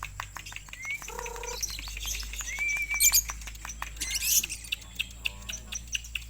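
Lovebird chirping: a fast string of sharp, clicky chirps, broken by short bursts of high shrill trilling about three and four seconds in.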